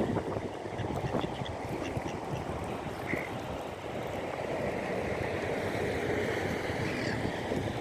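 Birds calling, a few short calls over a steady rushing background, with calls of a duck-like, quacking kind.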